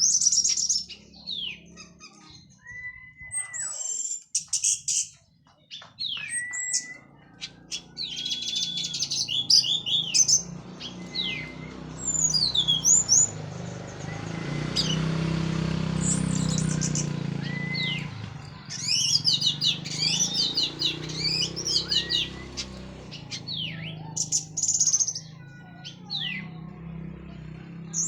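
Orange-headed thrush (anis merah) singing in full voice after finishing its moult: a long, varied run of loud whistled phrases, sliding notes and quick chattering notes with short pauses between. A low background rumble swells in the middle and fades again.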